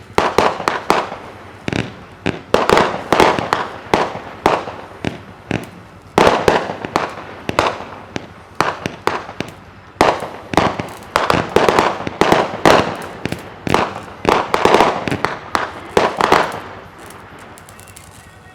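Winda Pulse Pounder 50-shot consumer salute cake firing a fast string of sharp reports in quick clusters, stopping about 17 seconds in. These are 'legal' salutes, pretty quiet next to real flash salutes: some poof, some pop.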